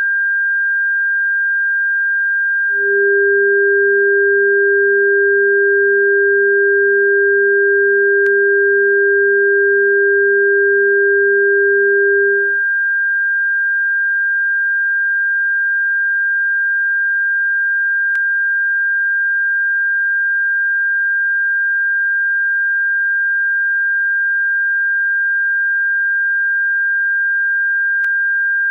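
Synthetic bird-repellent tone track: a steady, high-pitched pure electronic tone, joined by a second, lower pure tone about three seconds in that stops about twelve seconds in.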